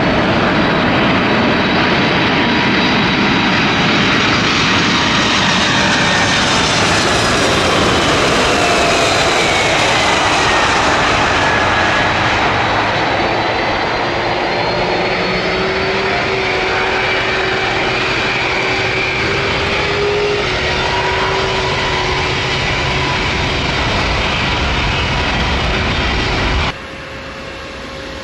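Jet airliner engines running loud as the plane passes, a steady roar with high whining tones that slowly fall in pitch. Near the end the sound cuts off sharply to a much quieter steady hum.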